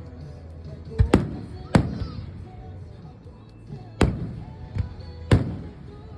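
Aerial fireworks going off: a string of sharp booms at uneven intervals, each with a short echoing tail, with fainter pops between them.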